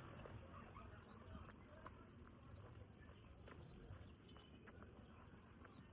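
Near silence: a faint low hum with scattered, irregular soft clicks.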